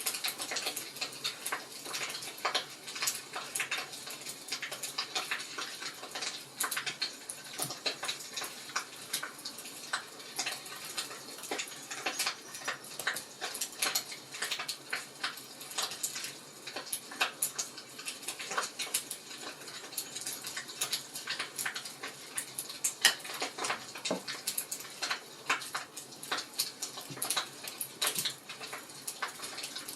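Wood fire crackling in a fireplace: constant irregular pops and snaps over a soft hiss.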